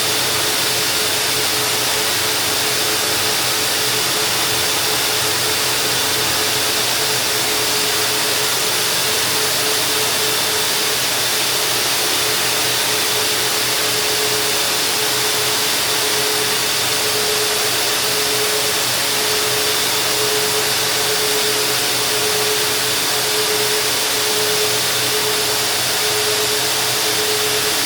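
High-powered duct-cleaning vacuum running with its rotating duct brush working inside an air duct, pulling out dust and debris: a loud, even rush of air with a steady hum underneath.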